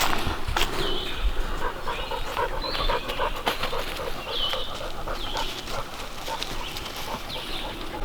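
A dog panting rapidly and steadily, hot from a steep uphill hike.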